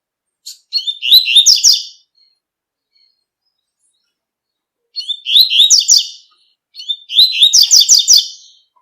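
Double-collared seedeater (coleiro) singing its tui-tui song: three short phrases of quick, high repeated notes, the second and third following close together near the end.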